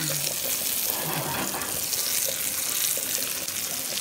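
Cashew nuts frying in hot ghee in an iron kadai: a steady sizzle.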